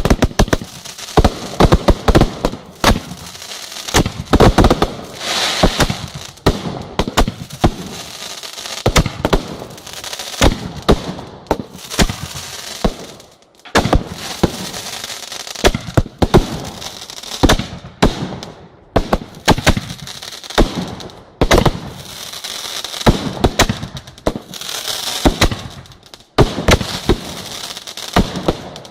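Fireworks display: a rapid, uneven run of sharp bangs from bursting shells, with crackling between them and a couple of short lulls.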